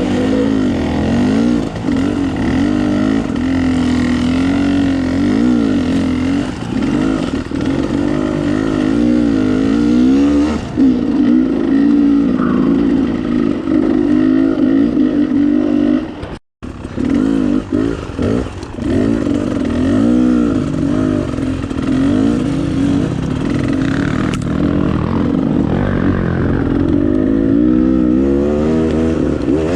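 Dirt bike engine running under way, its pitch rising and falling constantly as the throttle opens and closes. The sound cuts out for an instant about halfway through.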